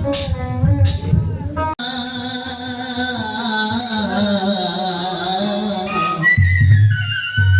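Baul folk song: singing over instruments. The sound breaks off abruptly about two seconds in and the music carries on with a different sound, and a low drum beat comes in near the end.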